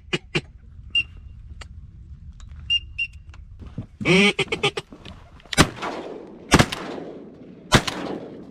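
Quacking, then three shotgun shots about a second apart, each with a ringing tail. A few faint short whistles come in between, and the shots are the loudest sound.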